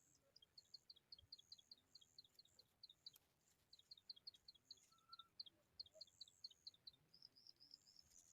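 A small bird's faint, high chirps in quick series, about five a second, in two runs with a short break between them, then a brief faster trill near the end.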